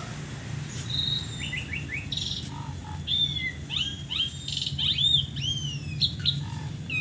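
A songbird calling: a run of short whistled chirps and slurred rising and falling notes, starting about a second in, over a steady low hum.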